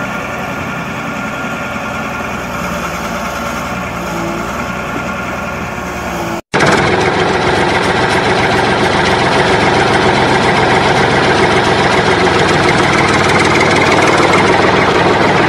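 Truck engine running steadily, dubbed over the footage as a sound effect rather than coming from the toys. It cuts off abruptly about six and a half seconds in, resumes louder at once, and fades out near the end.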